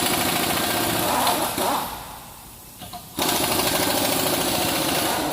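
An impact wrench hammering in two long bursts, the first stopping about two seconds in and the second starting about a second later.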